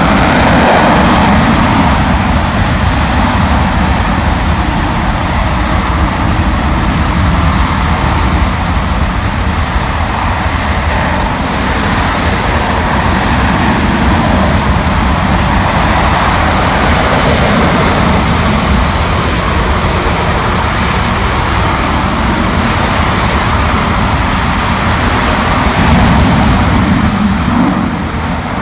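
RS-25 liquid-fuel rocket engine firing on a test stand, a loud, steady rush of noise that eases slightly near the end.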